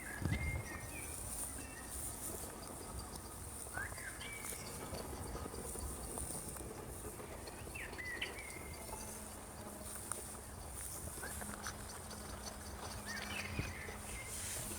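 Outdoor countryside ambience: a steady high-pitched insect chirring, with short bird chirps about every four seconds. A faint low steady hum comes in about two-thirds of the way through.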